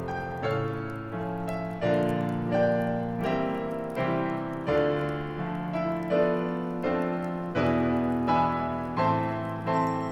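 Solo piano playing a slow, gentle Christmas song arrangement, with notes and chords struck about once or twice a second.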